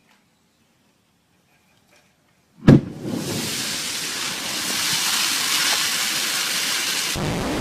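A sudden loud bang, then a steady loud rushing hiss that runs for about four and a half seconds and cuts off near the end.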